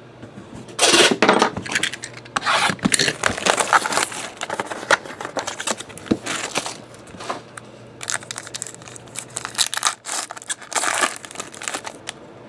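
Trading-card box packaging being torn open, with irregular rustling, crinkling and scraping of wrapper, cardboard and cards, and a few small clicks. Sharp tearing rips about a second in and again near the end.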